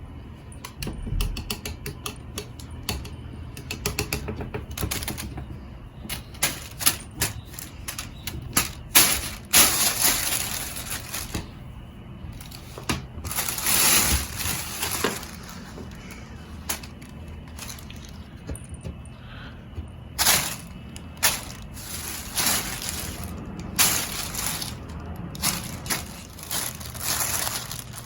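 Irregular clicking and rustling of a cat toy in play, coming in quick bursts with short pauses between them.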